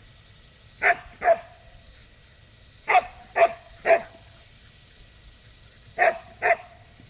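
A dog barking: seven short, sharp barks in three bunches, two, then three, then two.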